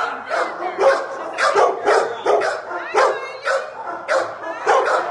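Several kennelled shelter dogs barking, a few barks a second at uneven spacing with no let-up.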